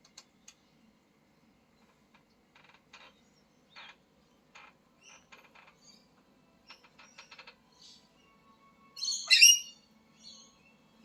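Parrot making scattered soft clicks and short chirps, then one loud harsh call about nine seconds in.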